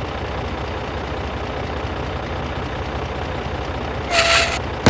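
A small engine running steadily with a low, rapid, even pulse. A brief, louder, higher-pitched sound with a single held tone cuts in near the end.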